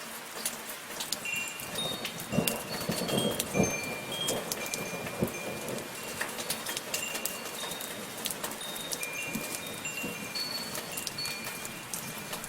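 Steady falling rain with wind chimes ringing now and then in short, high, clear tones. From about two to four seconds in there is a louder patch of low knocks and splashes.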